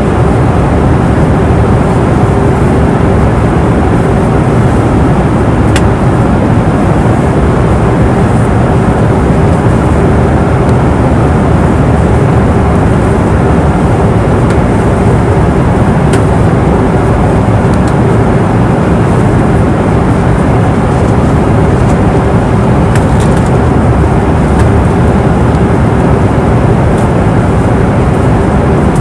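Steady cabin noise of an airliner in flight: the low rush of air and engine drone, with a steady hum running through it and a few faint clicks.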